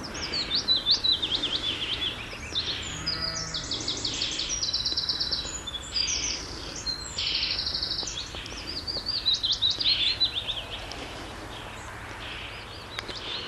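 Small songbirds singing outdoors: quick sweeping chirps and fast repeated trills from more than one bird, dying down near the end.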